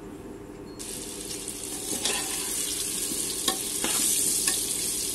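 Potato chunks go into hot mustard oil in a pressure cooker and start sizzling suddenly about a second in. The frying hiss goes on while a metal slotted spoon stirs them, clicking against the pot a few times.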